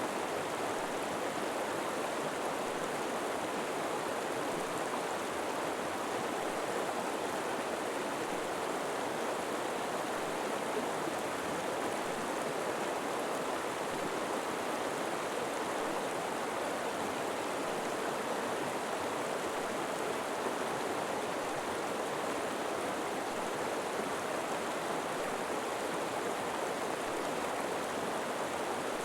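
A river flowing, with a steady, even rushing of water that does not change.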